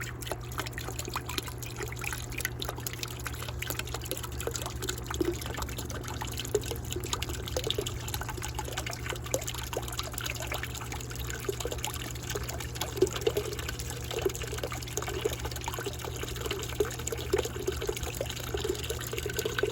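Water trickling and splashing from the return hose into a bucket of vinegar descaling solution, with a steady low hum under it, as the descaling pump primes and circulates through a tankless water heater.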